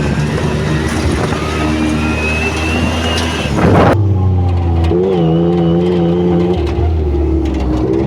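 Yamaha YXZ1000R side-by-side's engine running under way, its pitch rising and falling with the throttle. A thin rising whine comes with it in the first half, and a short rush of noise passes just before the middle.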